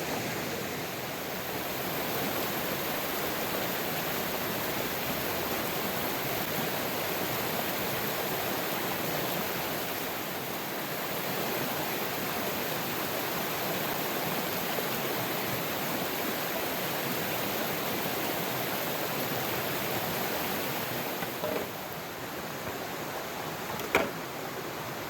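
Steady rushing of water, even and unbroken, easing slightly near the end. A single sharp knock sounds about a second before the end.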